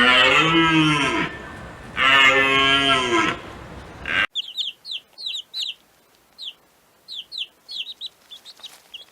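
Two long, low-pitched animal calls, each rising and then falling in pitch, followed by an abrupt cut to a run of short, quick, high bird-like chirps.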